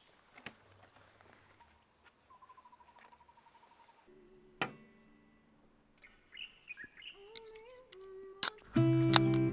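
Faint bird chirps, with a short rapid trill about two seconds in. Acoustic guitar music starts loudly near the end.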